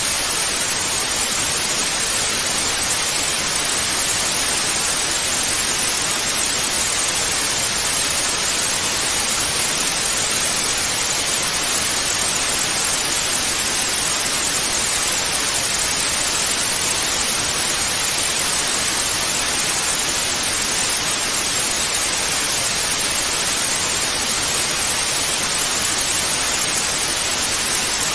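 Steady television static hiss (white noise), even and unchanging, with its weight in the upper frequencies and little low end.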